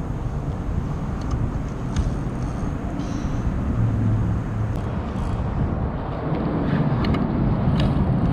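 Road traffic rumbling on a bridge overhead, swelling twice as vehicles pass, with a few short clicks.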